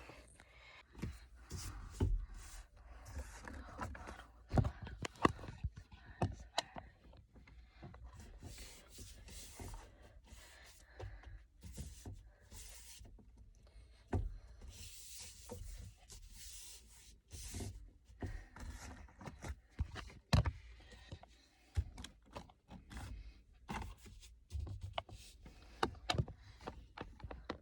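Scattered clicks, knocks and rubbing from someone handling things inside a car cabin, with a few stronger knocks.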